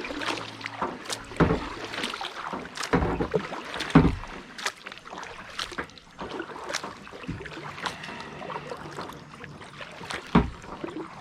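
Kayak being paddled: irregular paddle splashes and knocks over a steady water hiss.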